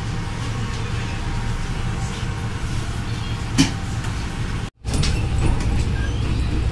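Steady rumble inside a PNR commuter train carriage, with a single sharp knock about halfway through. The sound drops out for a moment about two-thirds through, then the same rumble carries on.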